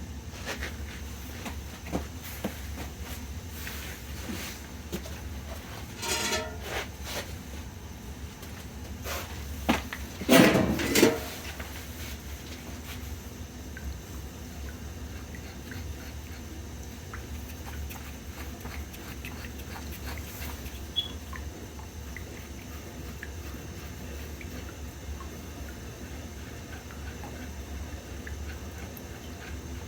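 Steady low hum at a steam boiler, with scattered light taps and a short, louder clatter about ten seconds in as work begins on the boiler's sight glass fittings.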